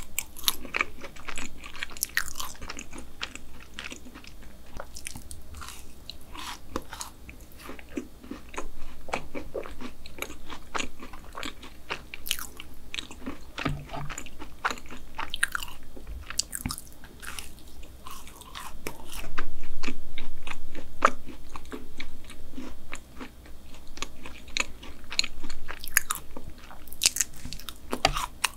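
Close-miked chewing and biting of a fudgy chocolate brownie: a steady run of small wet mouth clicks, loudest for a couple of seconds about two-thirds of the way through.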